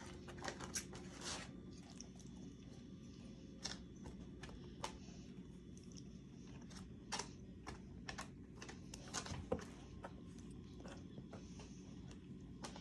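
Faint scattered clicks and taps of a small child eating, irregular and a few each second at most, over a steady low hum.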